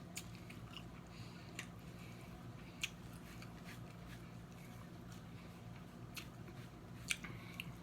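Snow crab leg shells being cracked and picked apart during eating: a few sharp, scattered clicks and cracks over a low steady hum.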